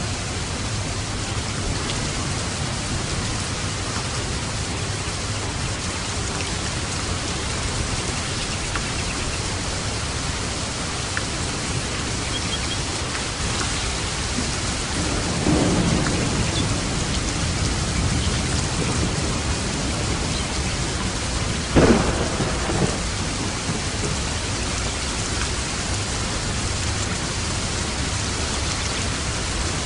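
Steady heavy rain of a thunderstorm, with thunder rumbling about halfway through and a sharper, louder thunderclap a few seconds later.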